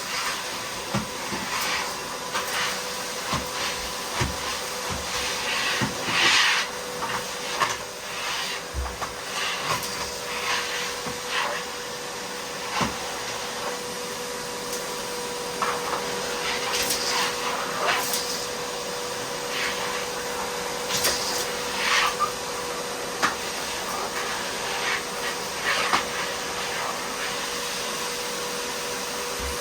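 Miele vacuum cleaner running steadily with a whining hum, with frequent short crackles and clicks as grit and debris are sucked up with a crunch.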